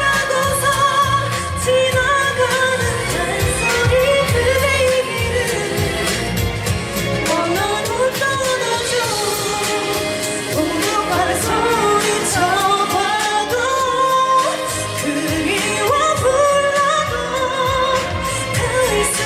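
A woman singing a Korean pop ballad live over a backing track, with long, wavering held notes.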